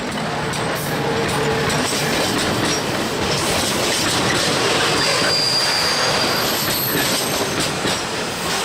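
Train wheels running over rails in poor condition: a loud, steady rattle and rumble with scattered knocks and clicks, and a brief high squeal about five seconds in.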